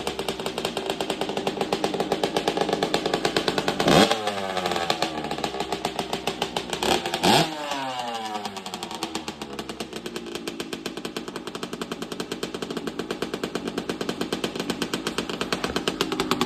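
Kawasaki KX 65 two-stroke dirt bike engine idling with a rapid popping beat, blipped sharply about four seconds in and twice more around seven seconds in, each rev shooting up and falling back to idle.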